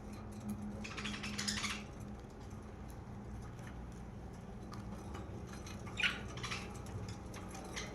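Pet budgerigars chattering in two short, scratchy bursts, about a second in and again around six seconds in, with small clicks and scratches between them.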